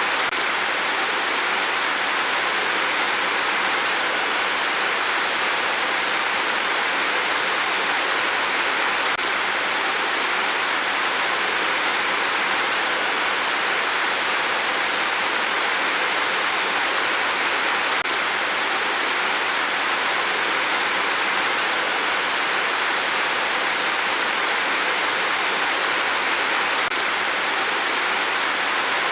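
Steady rain: an even, unbroken hiss with no single drops, thunder or other events standing out.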